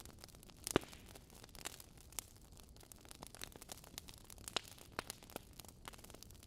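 Fire crackling: irregular snaps and pops over a faint hiss, with one louder pop about a second in.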